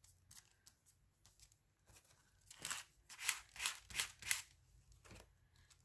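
Scissors cutting paper: a quick run of about six snips a little past halfway, after a few faint handling clicks.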